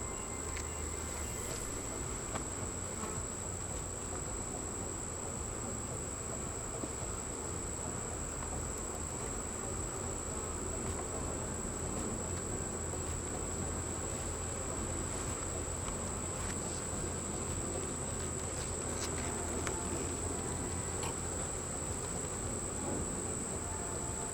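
Honeybees buzzing steadily around an open hive as its frames are inspected, over a constant high-pitched insect tone, with a few faint ticks.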